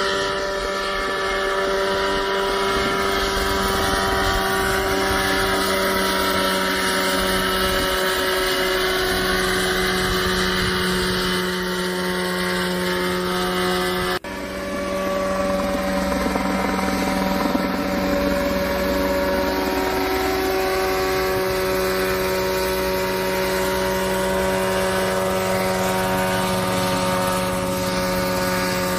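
Mirocopter SCH-2A small coaxial ultralight helicopter running, a steady engine and rotor hum. The sound drops out sharply for an instant about halfway through and picks up again at once.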